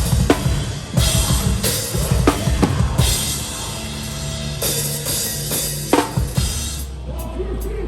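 Live hardcore band with the drum kit up front: rapid bass-drum hits under crashing cymbals and snare strikes. About seven seconds in the drums stop and a low bass note rings on.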